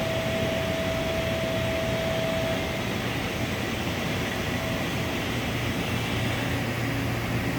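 Steady mechanical hum and hiss of a CNC vertical machining center running under power, with a thin whine that fades out about three seconds in.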